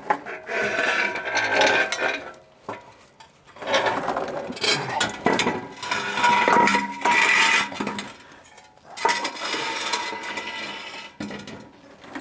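Steel exhaust pipe clanking and scraping in irregular bursts, with some metallic ringing, as the pipe section is worked loose from its exhaust hanger.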